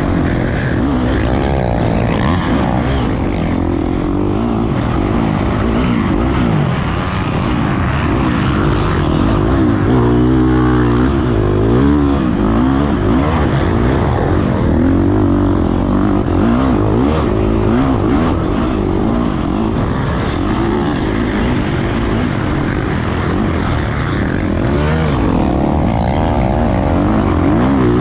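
Motocross dirt bike engine revving up and down repeatedly as the bike is ridden around the track, the pitch rising and falling with throttle and gear changes.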